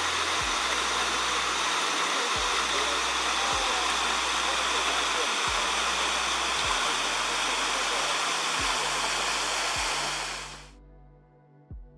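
A waterfall rushing, with soft background music under it. The water sound cuts off suddenly near the end, leaving only the music.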